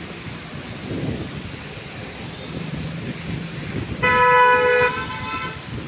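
A vehicle horn honks once, about four seconds in, for roughly a second, over a steady low rumble of traffic and road noise.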